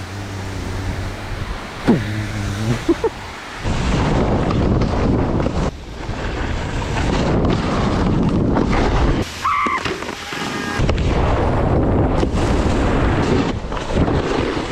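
Wind buffeting a moving action camera on a fast downhill run: a steady low hum with a short rising whistle for the first few seconds, then a dense rushing noise from about four seconds in that drops out briefly twice.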